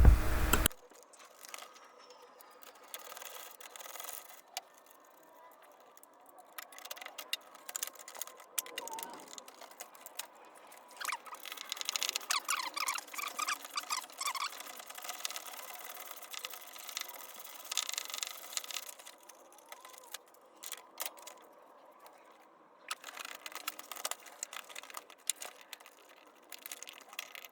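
Faint, scattered clicks, scrapes and rattles of hand tools working on metal parts, in short bursts with gaps of near silence.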